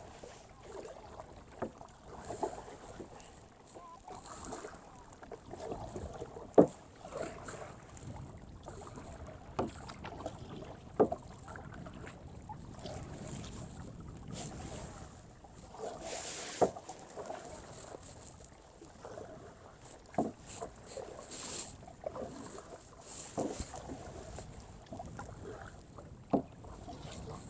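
A kayak being paddled, with water sloshing and splashing from the paddle strokes. Sharp knocks come every few seconds, the loudest about a third of the way in.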